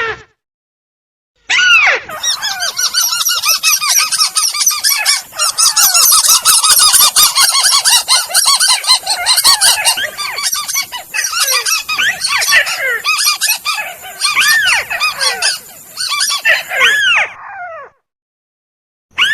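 Bird-lure playback of crake (tikusan) calls: many loud, harsh, downward-sliding calls overlapping in a dense chorus. They start about a second and a half in and stop shortly before the end.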